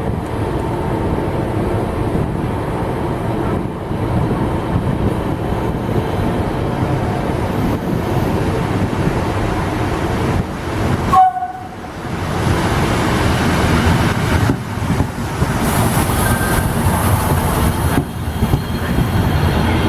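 A train running past with a steady rumble, and a short horn blast about halfway through.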